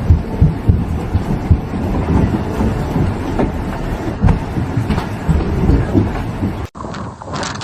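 Storm wind buffeting the microphone with irregular low thumps and a steady rush. About seven seconds in it cuts off sharply, and a hissier wind-and-rain noise follows.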